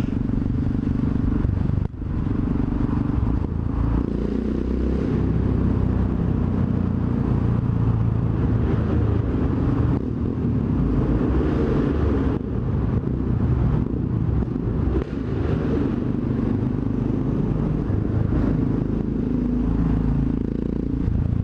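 Motorcycle engine running under way, its note rising and falling with the throttle, with a brief drop in the sound about two seconds in.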